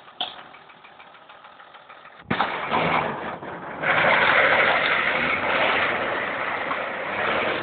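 Off-road 4x4's engine revving as it drives through mud close past. The sound comes in suddenly about two seconds in and gets louder again near four seconds.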